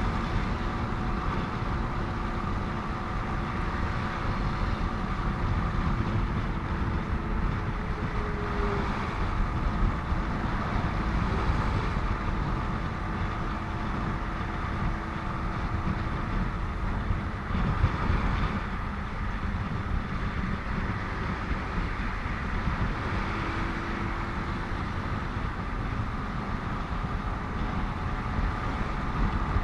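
Steady wind and road noise from riding a motorcycle in traffic, with a faint steady engine hum underneath.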